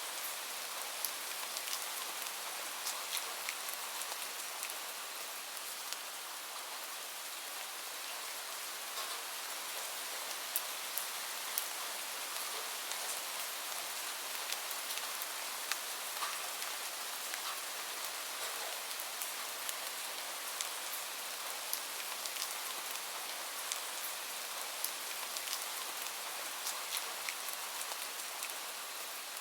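Steady rain falling, an even hiss with frequent small sharp ticks scattered through it.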